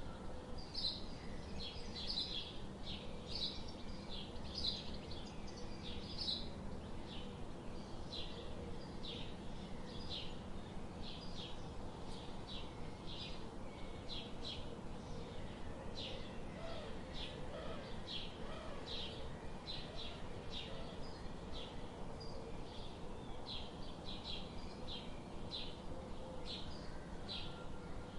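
Bird chirping in short, high notes repeated about twice a second, over a steady low background hiss.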